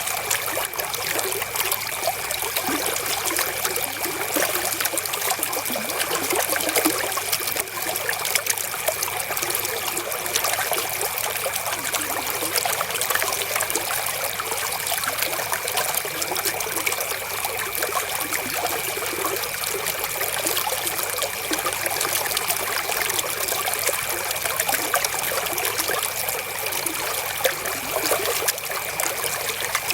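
River water flowing steadily, a continuous trickling babble of many small splashes, with a faint steady high tone running underneath.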